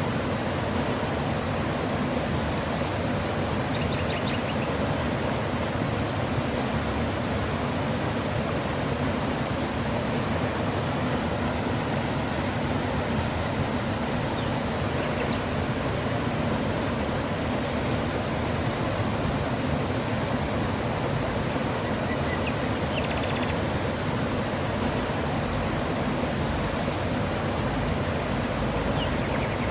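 Mountain river flowing, a steady rush of water. A faint high chirp repeats about twice a second over it, pausing briefly near the middle, with a few other short high chirps.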